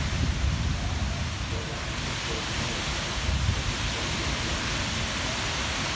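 Heavy rain and high winds of a thunderstorm: a steady rushing noise with uneven low rumbling surges of the wind.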